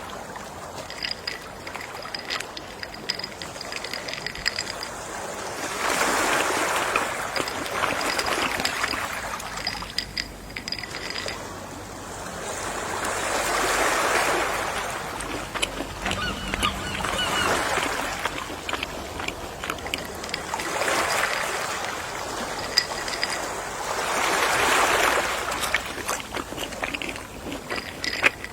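Gentle sea waves washing onto a shore, each surge swelling and fading every few seconds. A faint, rapid, high-pitched ticking comes through in the lulls between waves.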